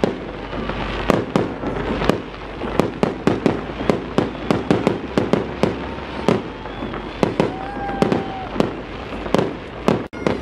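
Aerial fireworks salute bursting overhead in a rapid, irregular string of bangs, about three a second.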